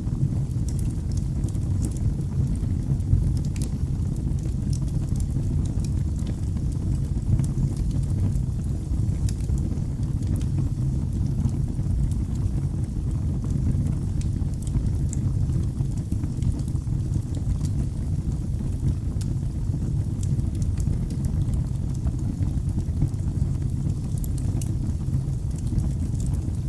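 Wood fire burning in a fireplace: a steady low rush of flames with frequent small, sharp crackles and pops scattered irregularly throughout.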